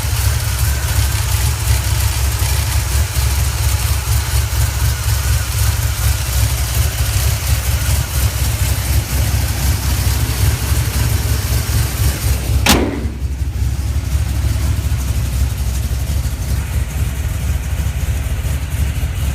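Chevy 350 small-block V8 with a Comp Cams Mutha Thumpr cam idling steadily through Hedman headers and 2½-inch Magnaflow mufflers. A single sharp click cuts in about two-thirds of the way through.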